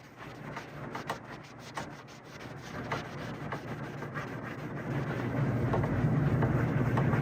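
Scratchy rubbing on wood, with many small clicks, as furniture wax is worked into the fine cracks of a marquetry chair. From about five seconds in, a steady low hum grows louder.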